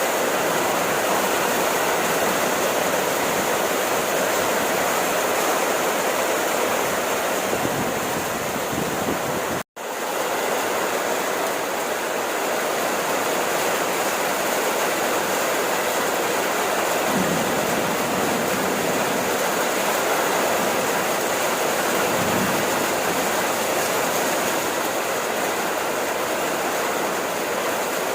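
Steady rain falling, an even hiss, which cuts out for an instant about ten seconds in.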